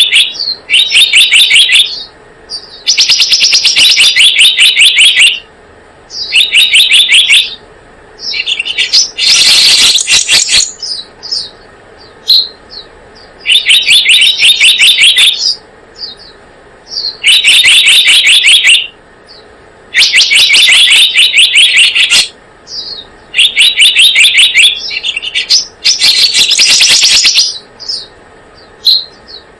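Recorded lure call of the selendang biru bird: repeated bursts of rapid, high chirping notes, each burst lasting a second or two, with short pauses between them.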